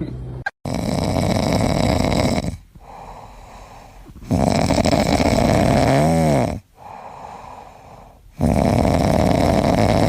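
A pet snoring loudly: three long, rasping snores about four seconds apart.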